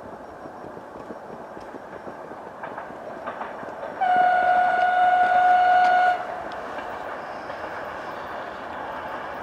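Suburban electric multiple-unit train running in, its noise growing louder. About four seconds in it sounds one steady horn note for about two seconds, the loudest sound here. The wheels then run on with scattered rail clicks.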